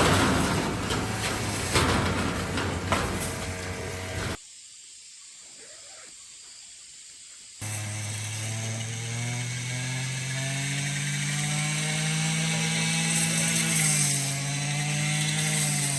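A small motor-driven machine running with a steady hum that rises slowly in pitch and dips briefly near the end; the sound cuts abruptly to a quieter stretch about four seconds in, before the hum starts.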